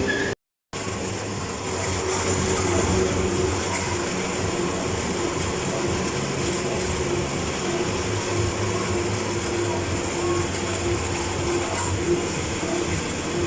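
Hospital suction unit running steadily: a continuous rushing hiss over a low hum, with a faint wavering tone. It cuts out completely for a split second just under a second in, then carries on unchanged.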